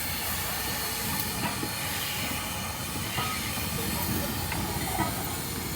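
Steam locomotive hissing steadily as it lets off steam, with a few short knocks mixed in.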